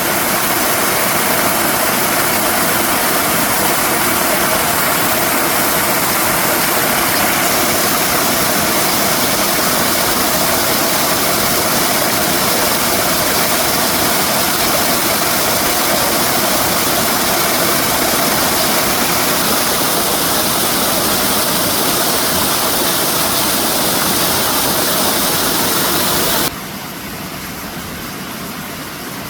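Steady rushing of a waterfall, a dense even roar of falling water that drops suddenly to a lower level about 26 seconds in.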